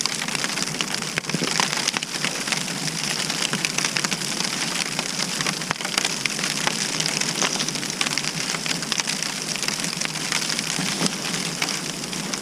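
Wind-driven snow hitting the fabric walls of a Hyperlite Mid 1 ultralight tent, heard from inside: a steady hiss thick with many small ticks.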